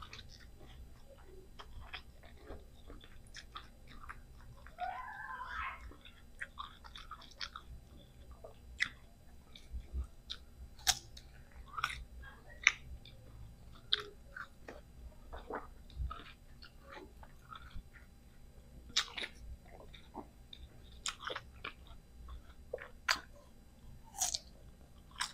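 Close-miked crunching bites and chewing of firm green mango slices: irregular sharp snaps and wet mouth clicks.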